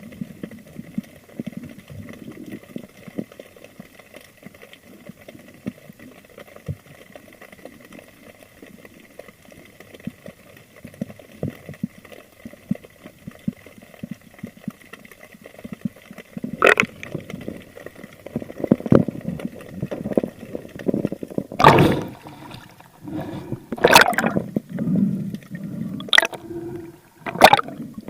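Water gurgling around an underwater camera: faint crackling at first, then from about two-thirds of the way through, several sudden loud gurgles and splashes.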